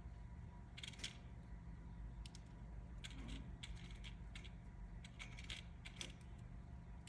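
A sleeping bird snoring: faint, short crackly clicking sounds high in pitch, coming in little clusters about every two seconds in time with its breathing.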